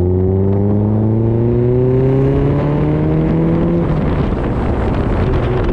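2000 Mazda MX-5 Miata NB's four-cylinder engine pulling through a stainless ISR cat-delete exhaust, its note rising steadily under acceleration. The note drops away a little before four seconds in, and a steady tone returns near the end.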